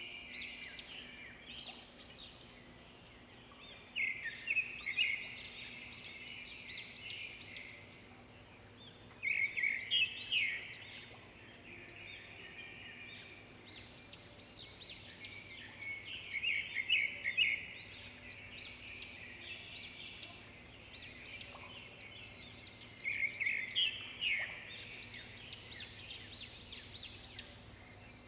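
Small birds chirping, a busy chorus of short high calls with louder flurries of rapid notes about every six or seven seconds.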